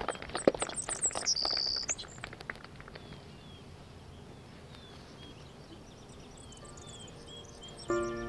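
Small songbirds chirping softly in short, high, scattered calls over quiet outdoor air. Near the end, music comes in with sustained chords.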